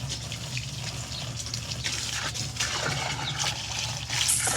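Water running and splashing, with scattered small splashes and drips.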